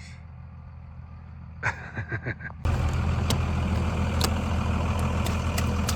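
A motor engine running steadily with a low hum. About two and a half seconds in it jumps suddenly to a much louder, closer rumble, with scattered clicks.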